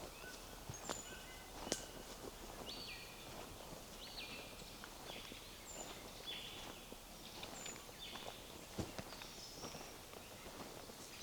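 Songbirds singing short whistled notes, with footsteps on a forest path and a couple of sharper cracks, one about two seconds in and one near the end.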